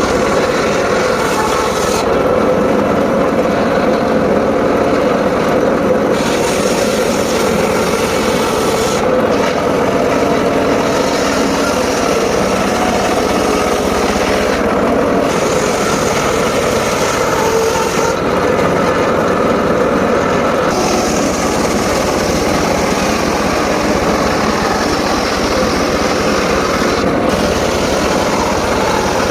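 Homemade circular sawmill running steadily while its blade cuts mahogany, the high rasping cutting noise coming and going in stretches of a few seconds over a constant machine drone.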